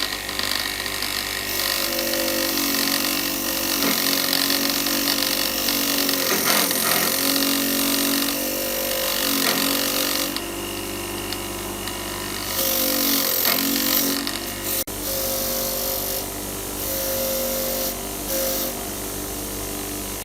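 An electric power tool motor running steadily, its pitch dropping briefly about four times as it is loaded against the work.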